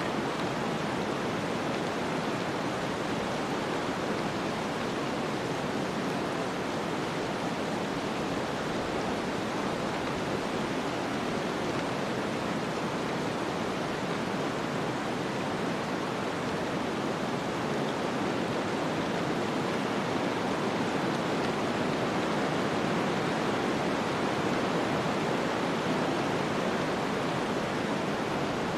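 Snowstorm ambience: a steady, even rush of wind-like noise with no gusts, clicks or changes in level.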